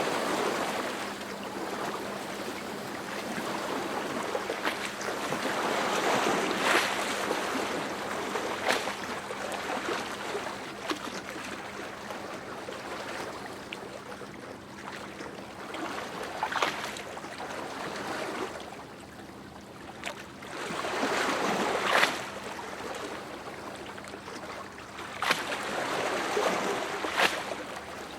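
Sea waves breaking and washing ashore, the surf swelling and fading every few seconds with several sharper splashes, over a faint steady low hum.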